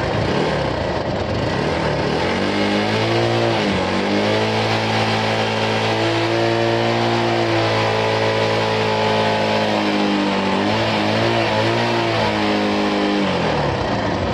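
Motorcycle engine revved up about two seconds in and held at a steady high rev for several seconds, with a short dip just after the rise and some wavering blips before it drops back down near the end.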